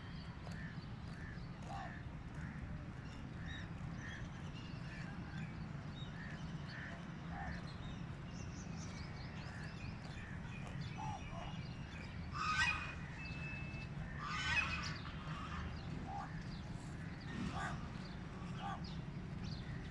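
Birds calling: many short calls scattered throughout, with two louder calls about two seconds apart past the middle, over a steady low hum.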